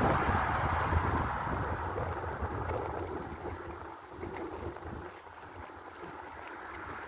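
Wind rushing and buffeting over the microphone while riding, with a low rumble. It eases off in the middle and builds again near the end.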